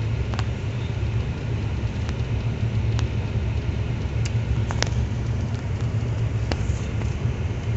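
Steady low rumble of a pickup truck's engine and tyres heard from inside the cab while driving on an iced-over road, with a few scattered sharp ticks.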